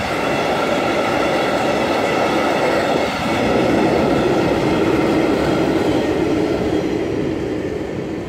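A freight train's covered sliding-wall wagons roll past, their wheels rumbling on the rails with a steady high squeal over the rumble. The sound eases off near the end as the last wagon goes by.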